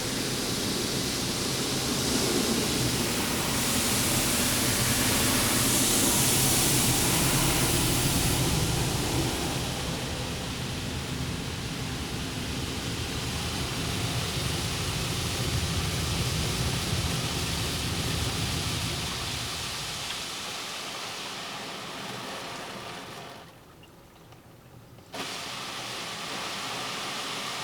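Water spraying onto the car from a Vector automatic car wash's high-pressure arm, heard from inside the car, over a low rumble of the wash equipment. The low rumble fades out about 20 seconds in; a few seconds later the spray stops for about a second and a half, then a lighter, steady spray starts again as the wash changes cycle.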